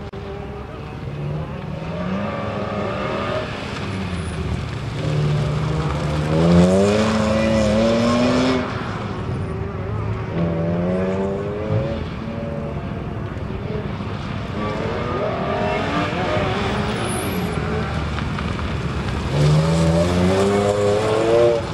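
BMW M3's straight-six engine on an autocross run, repeatedly climbing in pitch under hard acceleration and falling as it lifts off between cones. It is loudest about seven seconds in and again near the end, when the car is close.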